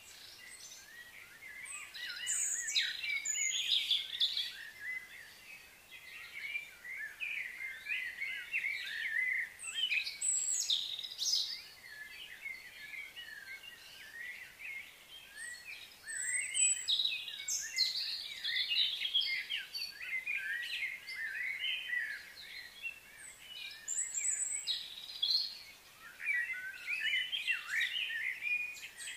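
Several birds chirping and calling over one another in irregular clusters of short, high notes, busiest about 2 to 5 seconds in, around 10 to 11 seconds, and again from about 16 to 20 seconds in.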